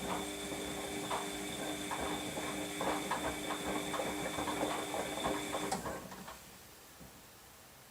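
Washing machine drum motor running in a steady hum while the load tumbles and clatters in the drum during the wash phase, then cutting off with a click about six seconds in.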